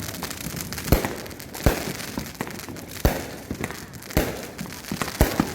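Fireworks going off in a rapid series of sharp bangs, about one every second, over continuous crackling.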